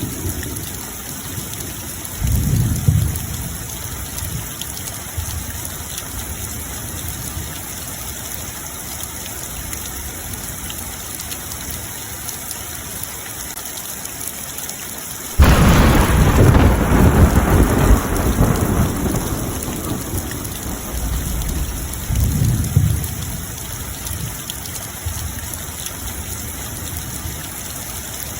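Steady rain with thunder rumbling. There is a low roll a couple of seconds in, then a sudden loud clap about halfway through that rumbles on for several seconds, and another low roll later on.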